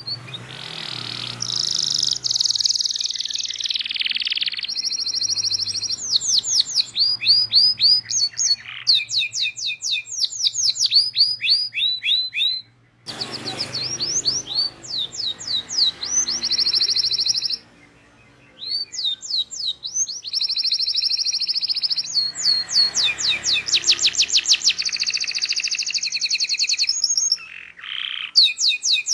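Domestic canary singing a long, loud song of trills and fast runs of repeated chirps, pausing briefly about a third of the way in, again past the middle, and near the end.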